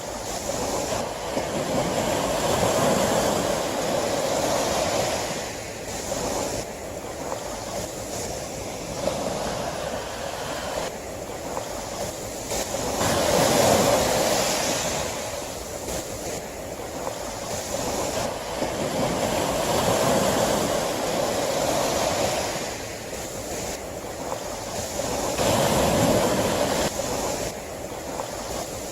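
Sea waves breaking and washing on a shore, the rush of surf rising and falling in swells every several seconds.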